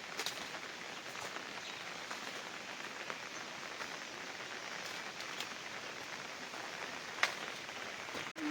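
Rain falling steadily, with scattered louder drops and one sharper drop near the end.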